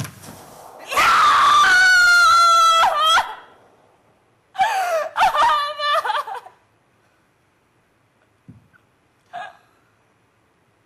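A woman's high-pitched scream held for about two seconds, then a second, shorter wavering cry a couple of seconds later, followed by two faint brief sounds.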